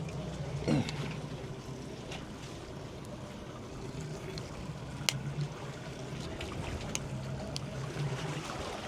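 Sea and wind sounds around a small fishing boat, with a low steady hum under them and a few sharp clicks, the loudest about five seconds in.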